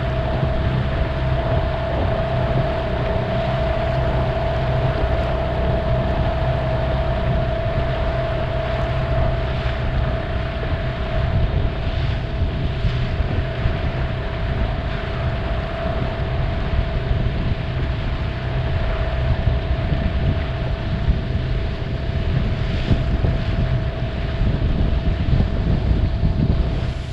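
Motorboat engine running at a steady speed under way, a constant droning hum over low rumble, with wind noise on the microphone; it cuts off abruptly at the end.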